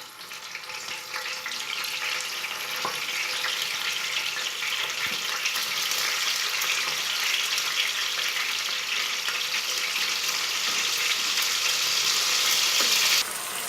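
Pieces of pre-cooked chicken frying in hot oil in a pan: a dense, crackling sizzle that grows steadily louder, then drops off suddenly near the end.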